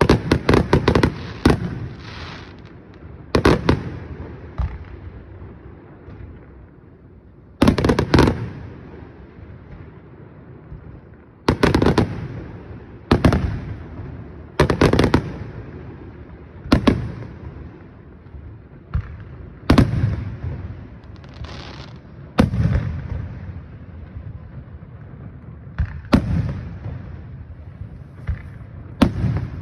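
Aerial fireworks shells bursting, a loud bang every second or few, some in quick crackling clusters, each followed by a rolling echo.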